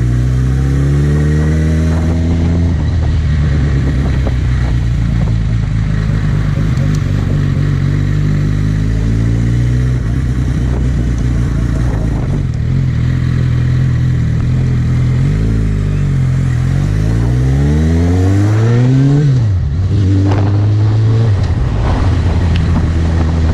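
Suzuki GSX650F inline-four engine running under way. Its note climbs at the start, then holds steady for a long stretch. Near the end it dips and climbs twice to a peak, drops sharply as the throttle comes off or a gear changes, and settles again, over a steady rush of noise.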